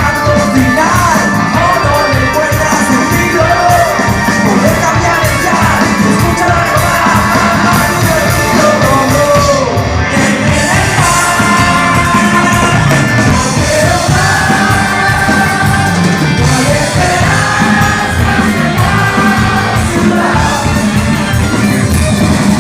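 Rock band playing with lead singing over drums and amplified instruments.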